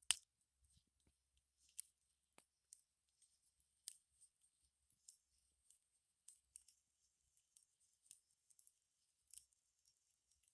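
Campfire crackling: irregular sharp pops and snaps of burning wood, the loudest right at the start, then sparser, fainter ones.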